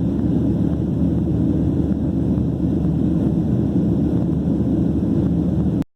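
Southwest Airlines Boeing 737 jet airliner: a steady low rumble of engines and airflow, cutting off suddenly near the end.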